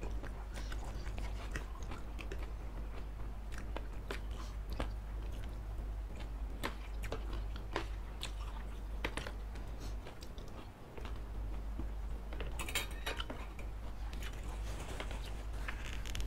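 Close-miked chewing and slurping of saucy fried noodles and satay meat, with scattered wet mouth clicks and the occasional clink of fork and spoon on the plate, over a steady low hum.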